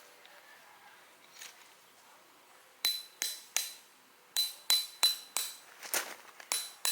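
A series of sharp metallic clinks, each with a bright ring that dies away quickly, like metal struck against metal. They start almost three seconds in with three spaced strikes, then a quicker run of about three a second.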